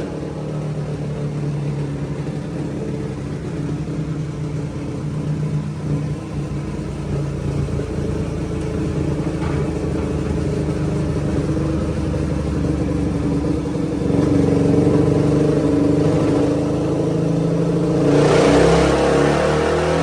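Suzuki DR-Z400 single-cylinder four-stroke engine running on a dyno through an MRD aftermarket exhaust. It holds a steady speed, gets louder about 14 seconds in, then revs up with the pitch climbing near the end as a dyno pull begins.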